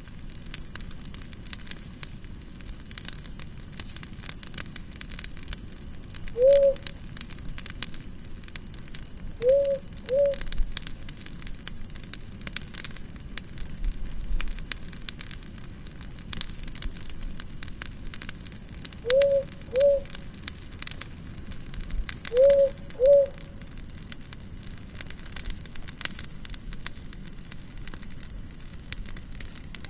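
Campfire crackling steadily, with short trains of high cricket chirps a few times. A low two-note animal call is heard once and then three times in pairs.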